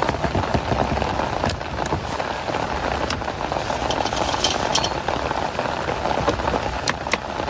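Steady rain falling, a dense hiss with scattered sharp ticks of individual drops striking.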